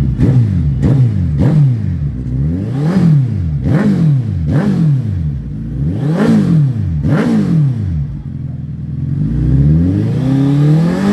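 Suzuki Hayabusa's inline-four engine revved through its exhaust in a run of quick throttle blips, each pitch rising and falling back. Near eight seconds it drops briefly to idle, then one slower, longer rev climbs near the end.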